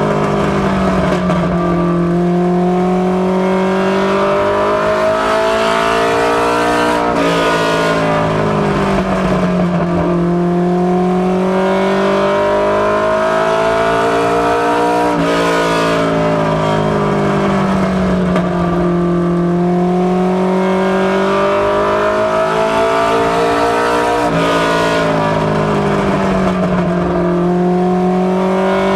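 Ford Mustang LX coupe ministock race car's engine running hard on track. Its pitch climbs steadily for several seconds as it accelerates down each straight, then drops sharply when the driver lifts for the turns, roughly every eight to nine seconds (three times).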